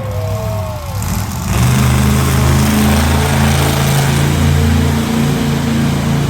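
Monster truck engine coming in loud about a second and a half in and running steadily. Sliding, falling tones fade out in the first second before it.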